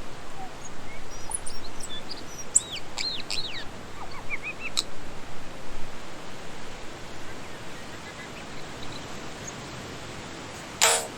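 Tūī singing: a quick run of whistled notes with rising and falling glides and sharp clicks, over a steady hiss. A short, loud burst of noise near the end.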